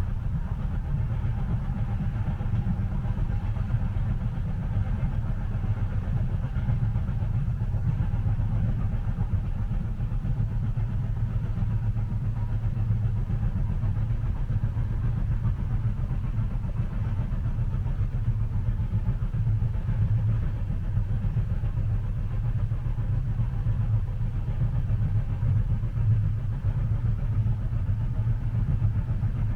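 Steady low rumble of a railway carriage in motion, heard from inside the cabin, with no distinct clacks or changes.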